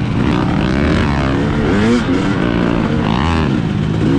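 Two-stroke dirt bike engine being ridden, revving up and down with its pitch rising and falling several times over a steady drone.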